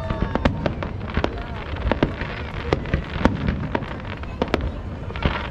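Fireworks display: a fast, irregular string of bangs and crackling pops, several a second with no pause.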